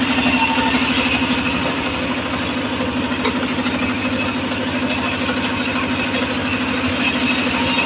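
The engine of a homemade circular-saw rig running steadily with an even, fast pulse.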